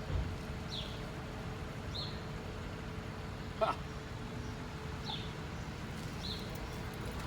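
A short, high, slightly falling chirp repeating about once every second, bird-like, over a steady faint hum. A single sharp click lands about halfway through.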